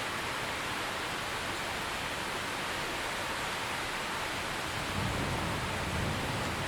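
Steady rainfall, an even hiss of many drops. From about five seconds in, a low rumble swells underneath.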